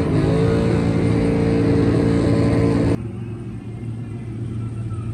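Truck engine held at high revs with a steady, loud tone, then about three seconds in the sound cuts abruptly to a quieter, lower engine rumble.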